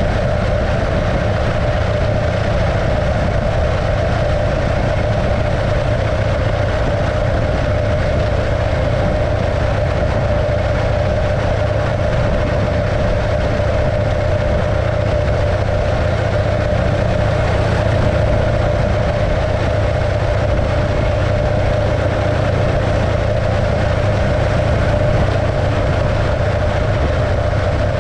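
1915 Arcade motorcycle's 650cc JAP V-twin engine running at a steady, unchanging speed.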